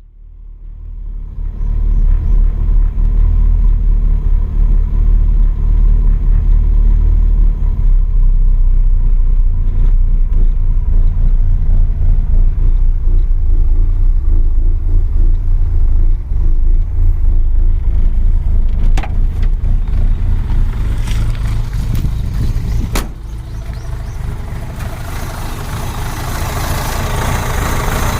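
Autobianchi A112 Abarth engine and exhaust running with a steady low rumble that fades in at the start. A couple of sharp clicks come about two-thirds of the way through, then the rumble eases and a rising hiss joins it toward the end.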